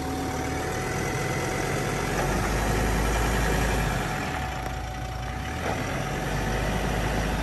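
Ford Everest's engine running at low speed while the SUV slowly tows a caravan forward.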